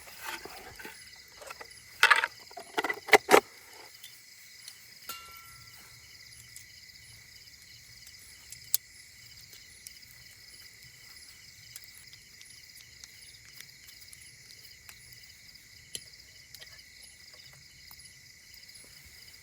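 Crickets chirping steadily in a repeating high-pitched pattern. A few loud sharp knocks and clatters come in the first few seconds, and one more comes near the middle.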